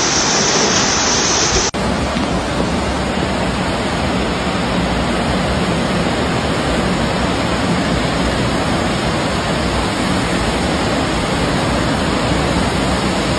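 Loud, steady rushing of water, an even noise across the range. About two seconds in, the sound briefly drops out and picks up again, joined from another recording of the same kind of steady rush.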